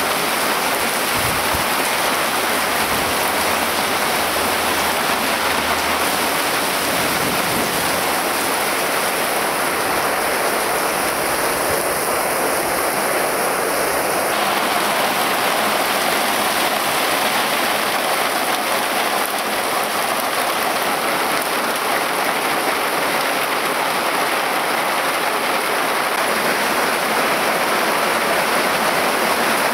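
Heavy thunderstorm downpour, rain pouring steadily onto roofs, ground and foliage.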